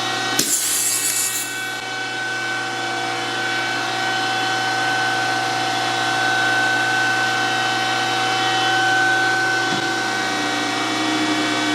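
DoAll 14-inch surface grinder running with a steady hum and whine. About half a second in, a short high hiss lasts a little over a second.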